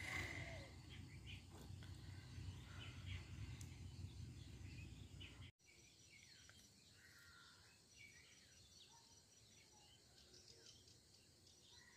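Faint outdoor background with scattered short bird chirps. A low rumble under the first half cuts off abruptly about five and a half seconds in, leaving quieter ambience.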